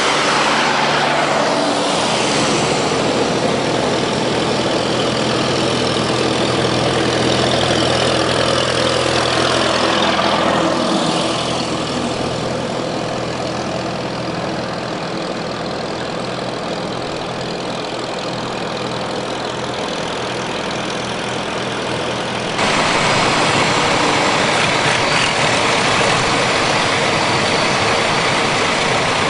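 Antique farm tractor engines running, with tractors passing by; the sound changes abruptly about 22 seconds in.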